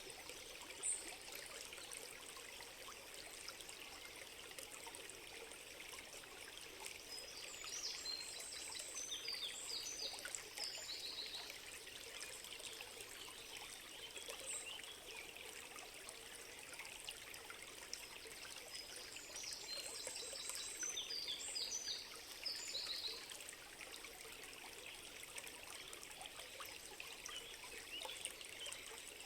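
Water trickling and running steadily, like a small stream, while a bird sings two short bursts of quick high chirps, about eight seconds in and again about twenty seconds in.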